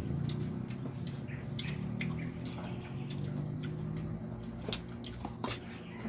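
Wet eating sounds from someone eating kinilaw, raw fish in vinegar: scattered small smacks and clicks, irregular, over a low steady background hum.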